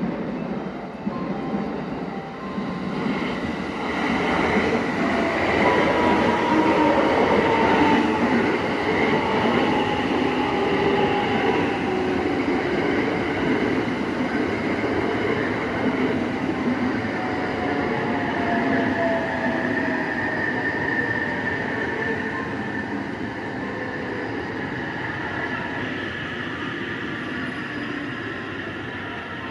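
Thunderbird limited express electric train running on the rails. It grows louder over the first several seconds, then slowly fades, with long falling whines or squeals heard over the rumble of the wheels.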